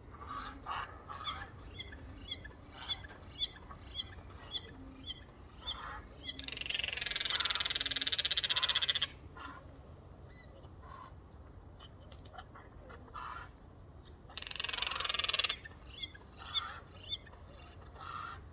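Eurasian jays calling in a chorus of strange noises. A quick run of short, evenly spaced notes comes first, then a long, loud harsh call about six seconds in, and a second harsh call around fifteen seconds in, followed by more short notes.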